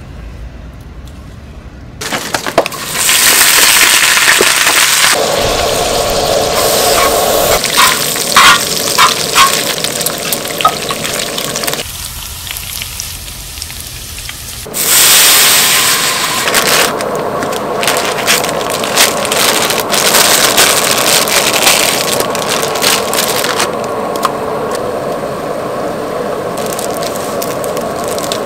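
Food sizzling and spattering in a hot frying pan, with scattered sharp pops and crackles. It starts about two seconds in, and its loudness and pitch change abruptly several times.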